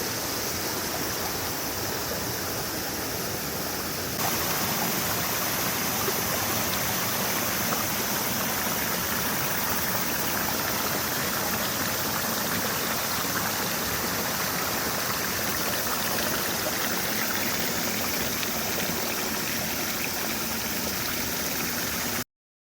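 Steady rush of running water, like a garden stream or cascade, a little louder from about four seconds in; it cuts off just before the end.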